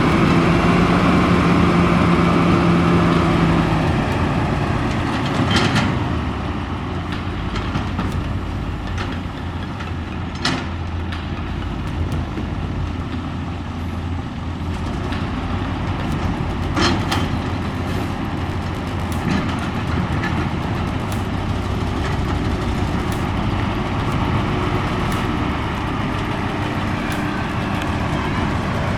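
Heavy diesel engine running with a steady low rumble. A pitched tone over it fades out about four seconds in, and a few sharp knocks sound over the engine later on.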